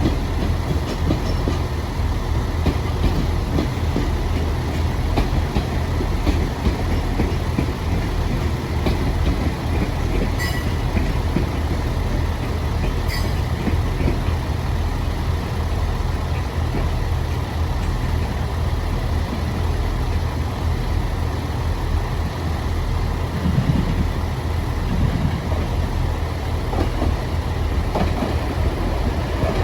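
KTR700 diesel railcar running, a steady low engine sound with no letup. Two brief high chirps come through about ten and thirteen seconds in.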